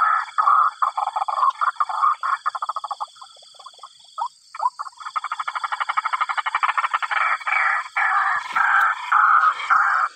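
White-breasted waterhen (ruak-ruak) calling: a long run of loud, harsh repeated notes that break into a rapid stutter of about ten a second midway, then slow again.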